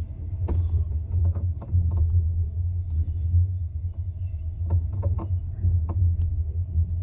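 Steady low rumble of a moving train heard from inside, with scattered light clicks and knocks.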